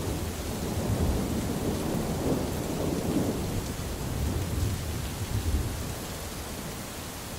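Heavy rain falling steadily with thunder rumbling low underneath, the rumble rolling on for several seconds and fading near the end.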